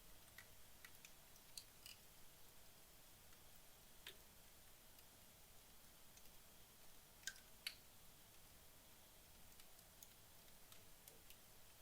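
Faint, sparse crackling of wood logs burning down in a fireplace: scattered sharp pops and ticks over a low hiss, with two louder pops close together about seven seconds in.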